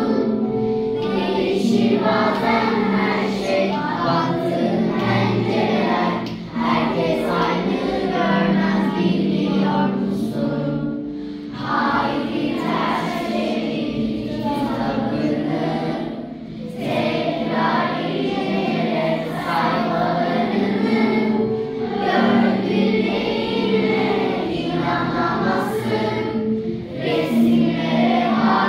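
A class of primary-school children singing a song together in chorus, with short breaks between phrases.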